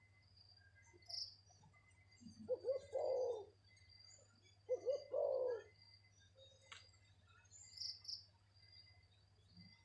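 Spotted dove cooing: twice, about two seconds apart, a phrase of a couple of short notes running into a longer coo. Faint chirps of small birds and a steady insect trill sound underneath.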